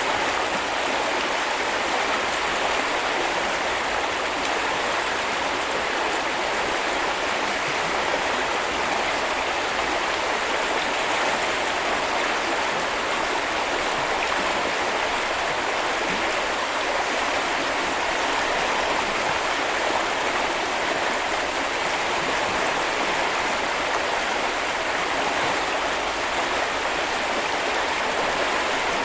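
Stream water flowing in a steady, even rush with no change in level.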